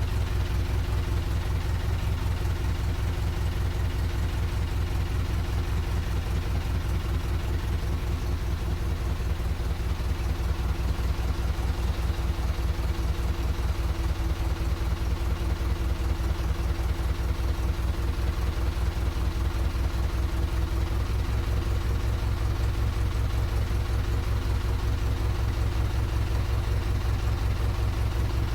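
GAZ-MM's side-valve inline four-cylinder engine idling steadily at low speed, an even run of firing pulses with no change in revs.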